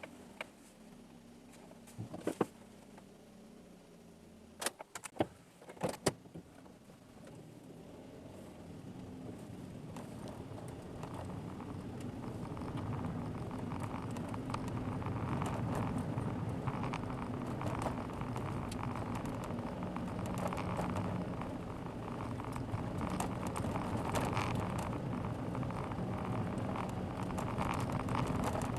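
Car driving, heard from inside the cabin: at first quiet, with a few sharp clicks and rattles. From about eight seconds in, the engine and tyre-road noise build and grow louder as the car gains speed, then stay steady.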